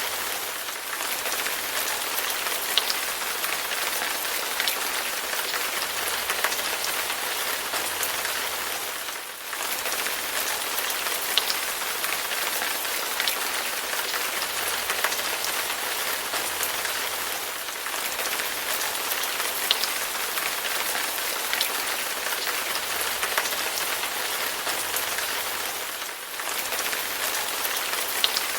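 Steady rain falling on a surface, an even hiss with single drops ticking here and there. The level dips briefly about every eight or nine seconds.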